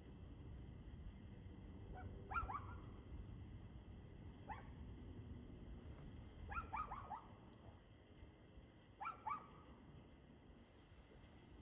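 Faint dog barking: single barks and quick runs of two to four, every two to three seconds, over a low steady rumble.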